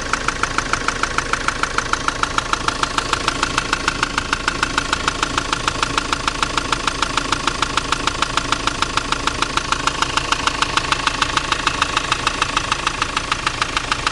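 2007 Ford Transit 2.4 TDCi four-cylinder diesel idling with the clutch pedal pressed, with a sharp, even knock about five or six times a second. The owner cannot place the knock and guesses at the EGR valve or the gearbox.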